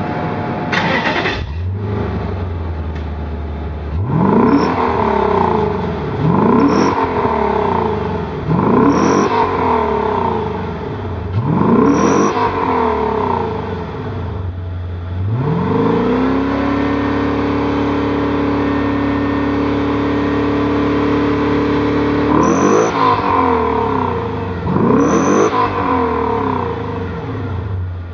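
Nissan President G50's V8 engine heard through its muffler: it catches about a second and a half in and settles to idle, is blipped four times, rising and falling, is held at a raised speed for about six seconds, then is blipped twice more.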